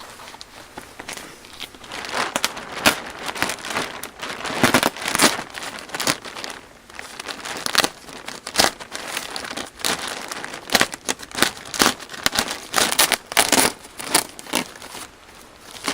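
Irregular crinkling and crunching handling noise, with many sharp crackles, starting about two seconds in.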